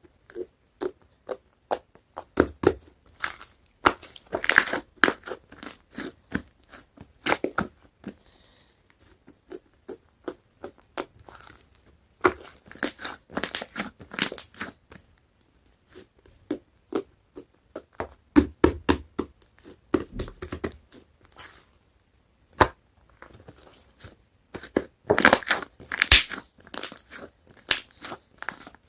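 Hands squishing and poking a soft, fluffy whipped-cream slime, giving off irregular clusters of sharp crackling and popping clicks with short pauses between them.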